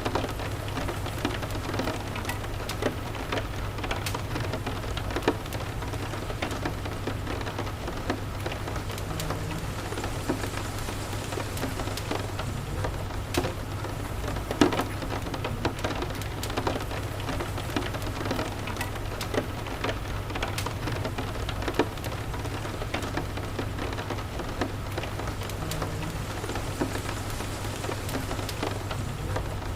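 Steady rain falling, with a low constant rumble underneath and scattered sharp crackles and pops from a wood fire in a fireplace.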